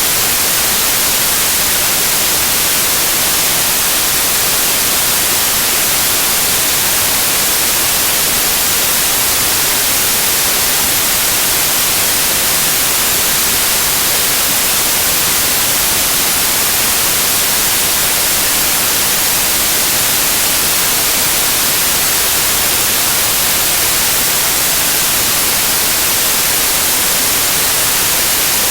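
Loud, steady white noise: an even hiss with the most energy in the high frequencies and no change throughout.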